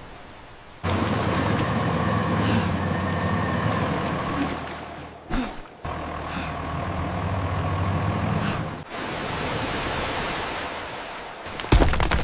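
A heavy vehicle's engine running steadily; it starts abruptly about a second in, breaks off briefly around the middle, and cuts out about three-quarters of the way through. A steady rushing noise follows, then sharp cracking snaps right at the end.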